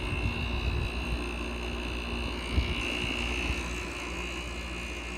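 2005 GoldStar 5400 BTU window air conditioner running: a steady hum from its fan and compressor, with a faint high whine.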